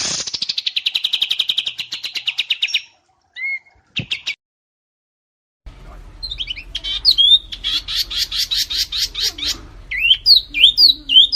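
Songbirds singing: a fast trill of about a dozen notes a second, a few short notes, then a second recording with rising chirps, another fast trill, and loud, sharp, upswept chirps near the end.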